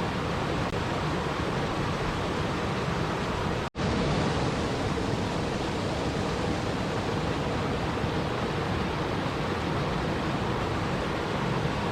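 Steady rushing water noise, an even hiss with no distinct drops or splashes, cut by a split-second gap of silence about four seconds in.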